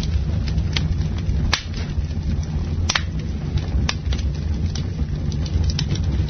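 Campfire burning: wood crackling with scattered sharp pops and snaps, the loudest about one and a half and three seconds in, over a steady low rumble.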